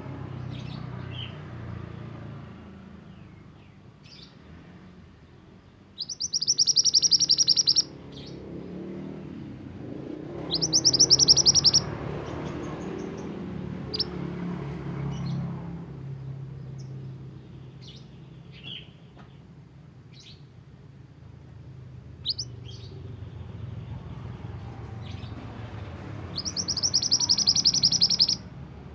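A mantenan songbird singing: three loud, fast, rattling trills of about two seconds each, with short chirps and whistled notes between them, over a steady low background rumble.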